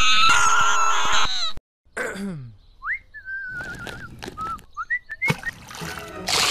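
A shrill comic scream cuts off abruptly about a second and a half in. A brief falling slide follows, then a warbling whistle with a few short chirps, and a splash of water near the end.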